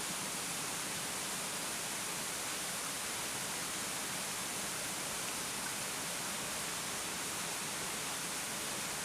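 A 30-metre waterfall with abundant flow: a steady, even rush of falling water that never breaks or changes.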